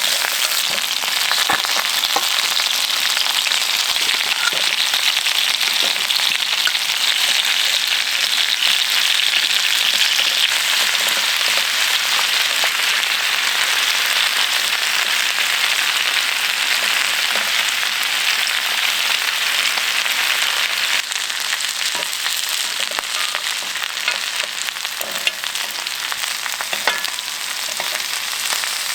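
Food sizzling steadily in hot fat, with scattered small pops; it turns a little quieter about two-thirds of the way through.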